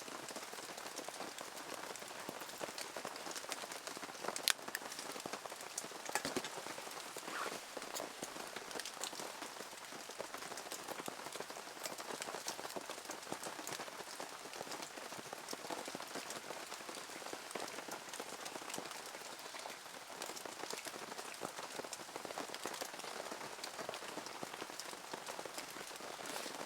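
Steady rain falling, with many scattered drop hits, a few of them sharper and louder.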